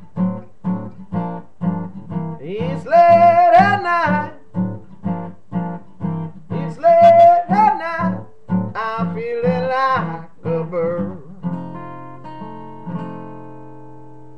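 Acoustic guitar strummed in a steady rhythm of about two strokes a second, with a man's singing voice over it in three short phrases. Near the end the strumming stops on a last chord that is left to ring and fade out.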